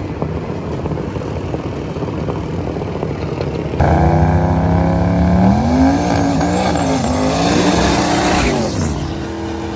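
Race car engine running with a rough, noisy rumble. About four seconds in, a much louder engine note starts abruptly, climbs in pitch, wavers, and falls away near the end.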